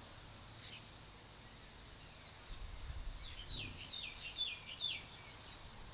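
A bird calling: a quick run of about six short chirps, each falling in pitch, a little past the middle, over a faint low rumble.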